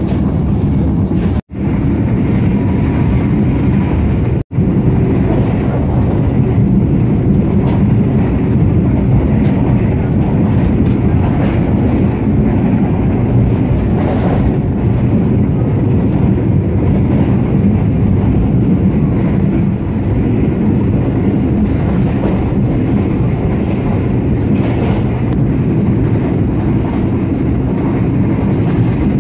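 Steady low rumble of an Indonesian executive-class passenger train coach running on the rails, heard from inside the coach. The sound drops out twice very briefly in the first five seconds.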